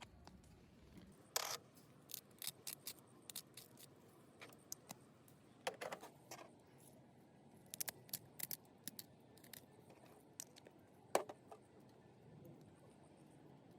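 A scattering of short, sharp clicks and ticks at irregular intervals, some in quick clusters, over a faint background.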